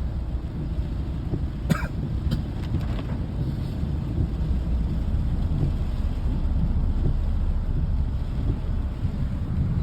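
Steady low rumble of a vehicle running, with a few sharp clicks about two seconds in.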